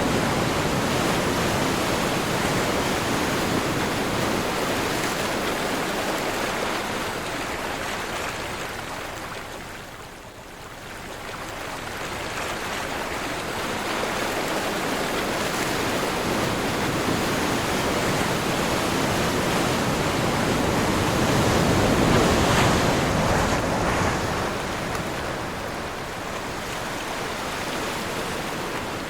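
Ocean surf washing in continuously. It fades to a lull about a third of the way through, then builds back to a louder surge about three-quarters of the way in before easing off.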